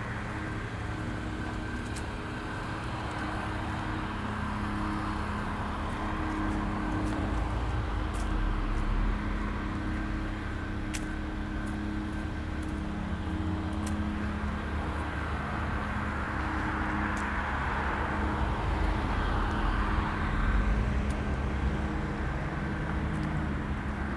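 Street ambience with a steady low engine hum and cars passing, one swelling about eight seconds in and another around twenty seconds in.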